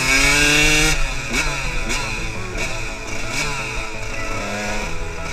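Honda CR125 two-stroke single-cylinder dirt bike engine revved in a series of throttle blips, its pitch climbing and dropping back several times, then running steadier near the end.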